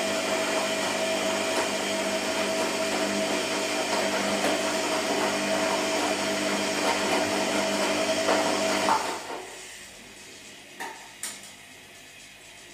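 Washing machine running with a steady motor whine, which stops about nine seconds in. A couple of faint clicks follow.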